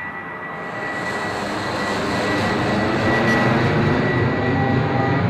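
Model airplane's Saito FG-14 four-stroke gasoline engine running steadily, growing louder over the first few seconds and then holding.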